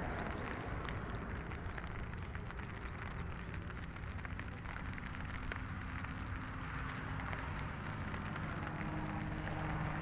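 Light rain falling, many small drops ticking on surfaces close to the microphone.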